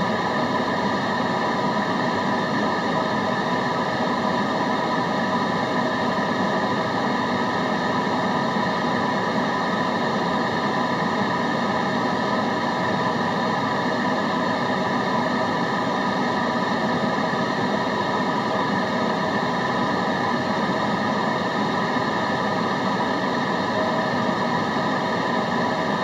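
Steady white-noise background: an even, unchanging rushing hiss at a constant level with no breaks.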